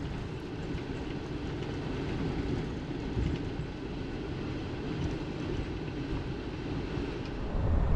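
Camper van driving slowly over a rough dirt road, heard from inside the cabin: a steady low rumble of engine and tyres on the washboard surface, with a few light knocks.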